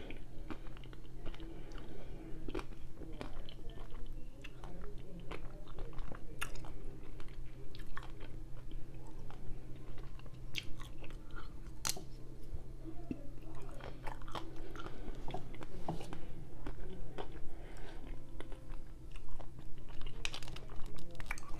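Close-miked chewing and biting of a Häagen-Dazs chocolate-coated ice cream bar: many small crackles and wet mouth clicks, over a low steady hum.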